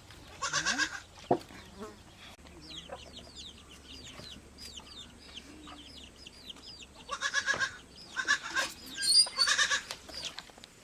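Farm animals calling in short, rapid pulsed bursts, four times, with small birds chirping quickly in between.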